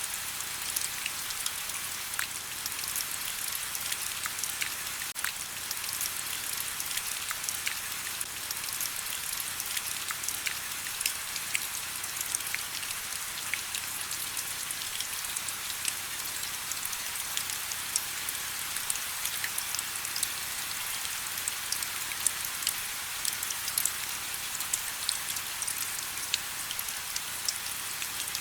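Steady rain: an even hiss filled with many small, sharp raindrop hits.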